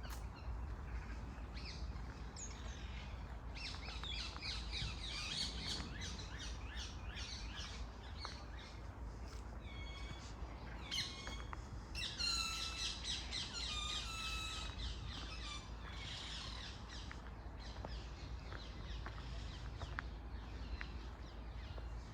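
Songbirds chirping and singing in quick repeated notes and trills, busiest from about four to sixteen seconds in, over a low steady rumble.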